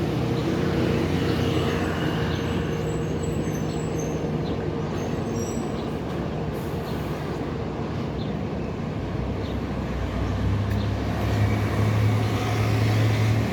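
Highway traffic with heavy truck engines running as they pass. One engine hum fades over the first few seconds, and a second deep engine hum grows louder from about ten seconds in.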